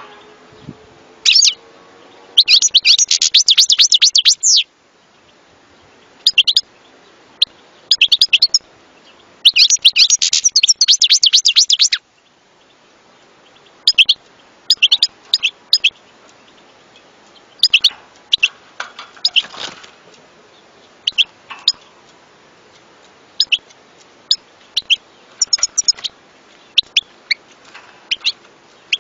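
European goldfinch singing: two dense bursts of rapid twittering song, each about two seconds long, with scattered short chirps between and after them.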